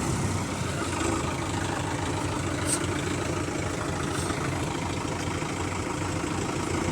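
Diesel tractor engine idling steadily, with an even low hum that neither revs up nor drops.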